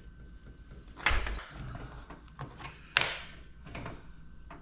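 Computer hardware being taken apart by hand: two sharp knocks of metal and plastic parts, about a second in and about three seconds in, with smaller clicks and rattles between.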